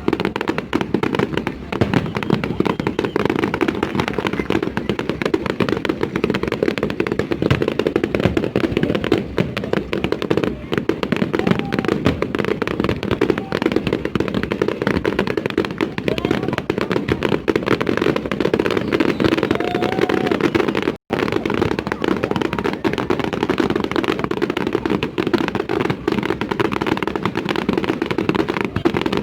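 Fireworks display going off in a continuous barrage: dense, unbroken crackling and popping bursts. The sound drops out for a split second about two-thirds of the way through.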